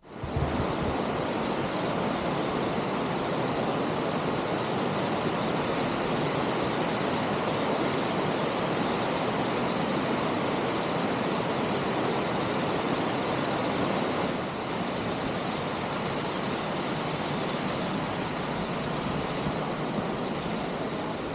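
Waterfall: a loud, steady rush of falling water that starts abruptly and holds without change.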